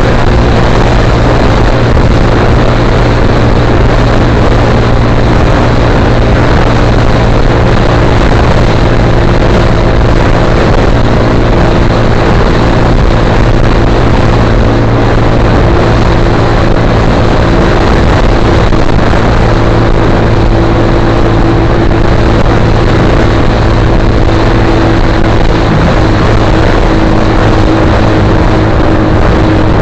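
Suzuki GSX-R150's single-cylinder four-stroke engine running steadily through an aftermarket Akrapovic-style slip-on muffler, its pitch holding nearly constant with a slight shift about halfway through.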